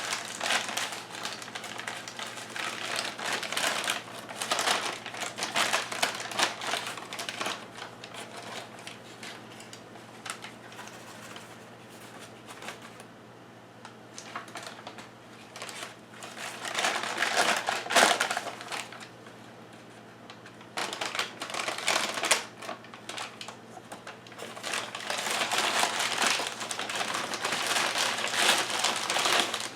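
Close-up handling noise: a plastic bag crinkling and rustling with small clicks and taps as things are handled, in irregular stretches with quieter pauses, over a steady low hum.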